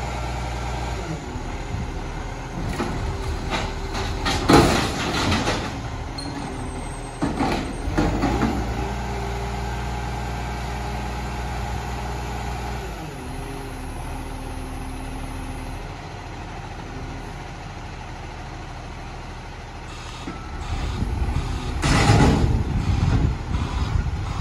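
Rubbish truck's diesel engine running steadily, broken by short, loud, noisy bursts: one about four seconds in, another about eight seconds in, and a longer one near the end.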